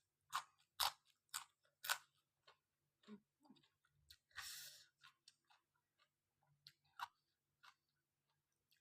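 Mouth sounds of a person eating rice noodles with curry: wet chewing and lip smacks. Several sharp smacks fall in the first two seconds, and a longer rush of noise comes about four and a half seconds in.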